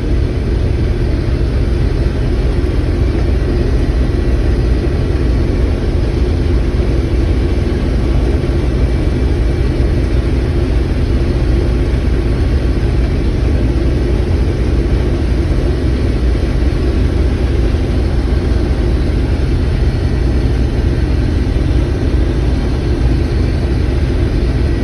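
Combine harvester running steadily while harvesting corn: a constant, even low engine drone with the hum of the machine's drives.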